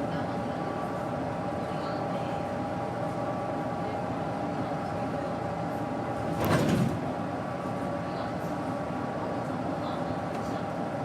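Daewoo BS110CN bus's Doosan GE12Ti natural-gas engine running steadily under way, with a steady whine throughout. About six and a half seconds in, one short loud burst of noise breaks through.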